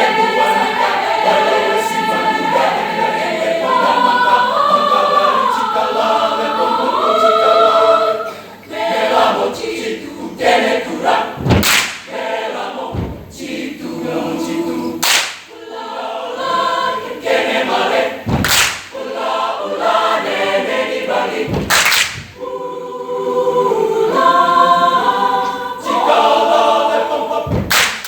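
A cappella mixed choir singing in parts, dense and sustained at first, then in shorter, sparser phrases broken by several sharp percussive hits in the second half.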